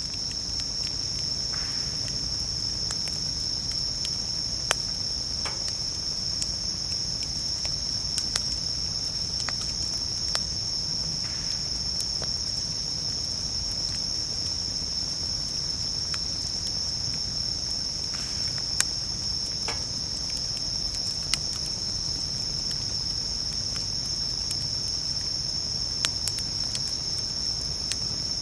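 Japanese bell crickets (suzumushi) singing in a steady, high, ringing chorus, with a wood campfire crackling beneath them in scattered sharp pops every second or two.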